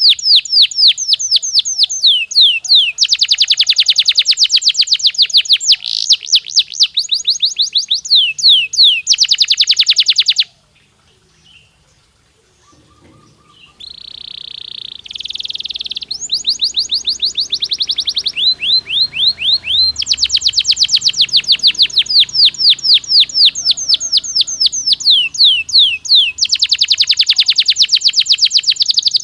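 Domestic canary singing: long rapid trills of repeated sweeping notes. A pause of about three seconds near the middle is followed by a short buzzy held phrase, then the fast trills resume.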